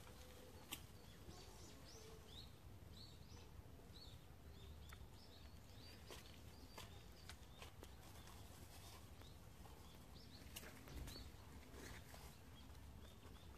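Near silence: faint garden ambience with birds chirping, short high chirps every second or so, and a few soft clicks.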